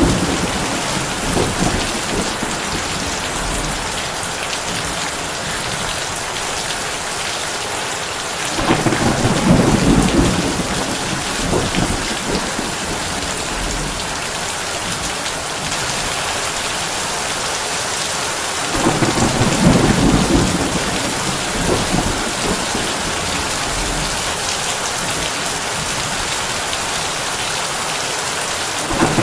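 Heavy rain falling steadily on a tin roof, with low thunder rumbling roughly every ten seconds: near the start, about nine seconds in, about nineteen seconds in, and again at the end.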